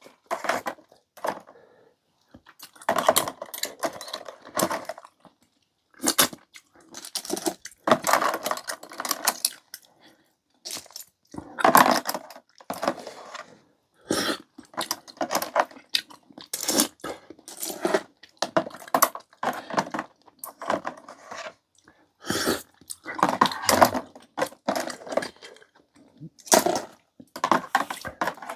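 Close-up eating sounds: irregular clinks of utensils against dishes between bouts of chewing and slurping of noodles, coming in short bursts every second or two.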